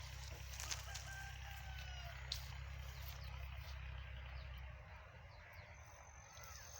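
A rooster crowing faintly once, with scattered small-bird chirps, over a steady low outdoor rumble that eases near the end.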